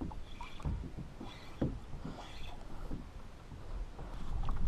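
Wind rumbling on the camera microphone, with water lapping against a plastic kayak hull and a few light knocks as the angler handles the rod and spinning reel.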